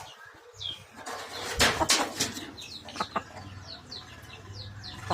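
Aseel chickens calling and moving: many short, high, falling peeps, with a few loud rustling, scuffling noises about a second and a half in and again near three seconds.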